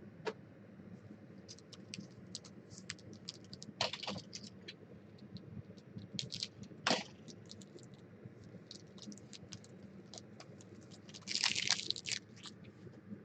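Trading cards and their packaging being handled: scattered small clicks and crinkles, with a denser crinkling burst near the end.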